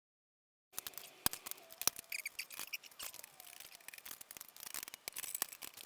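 Hand ratchet clicking in quick, uneven strokes, with small metallic ticks, as exhaust header flange nuts are worked off a motorcycle cylinder. It starts abruptly less than a second in.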